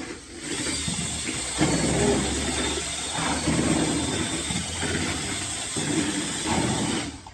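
Power-drill mixer with a paddle churning a bucket of ceramic glaze, the motor running steadily. It is remixing glaze whose heavier clay has settled to the bottom. It starts just after the beginning and stops shortly before the end.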